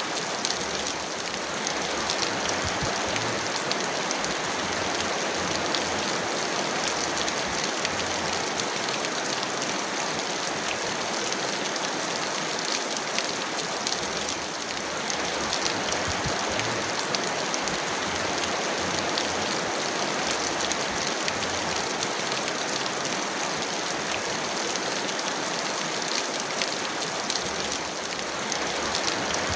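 Heavy rain falling steadily: a dense, even hiss with many sharp drop ticks.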